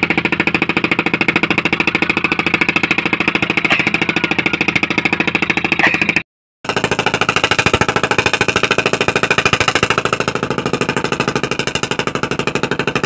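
Small engine running with a rapid, even firing beat, cutting out for a split second about six seconds in.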